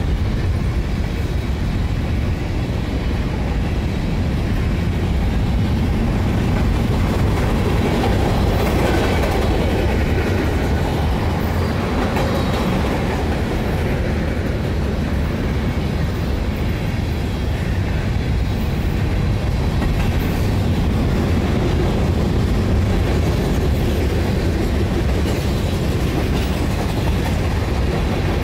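Freight cars of a manifest train (covered hoppers, boxcars, a tank car) rolling past: the steady, loud noise of steel wheels running on the rails, without a break.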